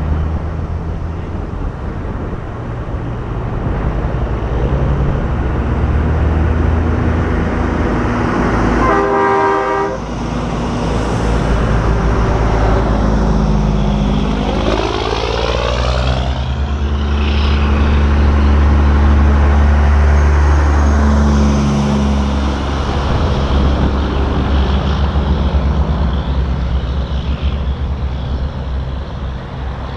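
Big diesel semi-trucks driving past in a convoy, their engines droning. A truck air horn sounds once, briefly, about nine seconds in, and midway a truck passes close, its engine note dropping in pitch as it goes by.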